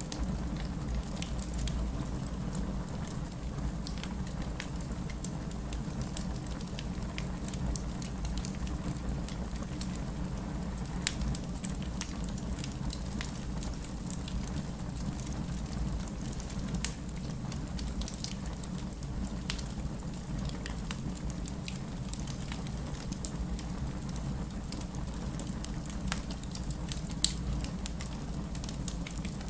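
Wood fire burning in a fireplace, with a steady low rumble of the flames and frequent small crackles and pops of the burning wood, a sharper pop near the end.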